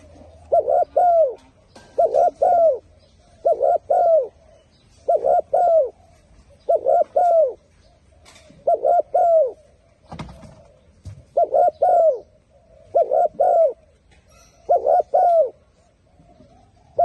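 Spotted dove cooing: a short two- or three-note coo repeated over and over, about every one and a half to two seconds, each note dropping slightly in pitch. Faint chirps of small birds sound behind it, and a dull knock comes about ten seconds in.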